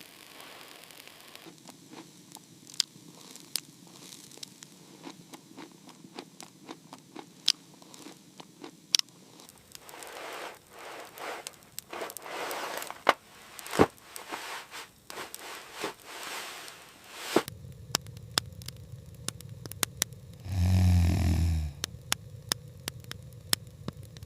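Wood fire crackling with many sharp pops over a faint hiss. Rushing swells of noise rise and fall through the middle, and a low rumbling sound comes near the end.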